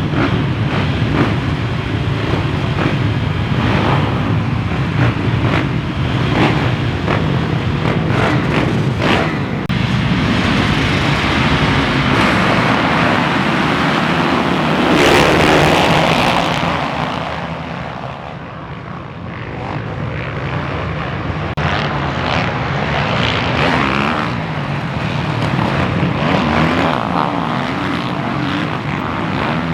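Motocross bikes racing on a dirt track, engines revving and changing pitch without a break. The sound swells to its loudest about halfway through, eases off briefly, then builds again.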